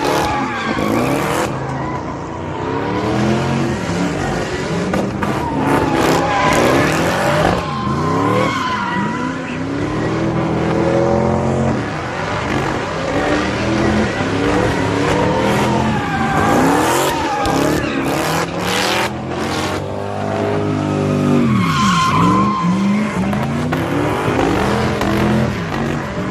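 Car engines revving up and down over and over, with tyres screeching as cars spin donuts.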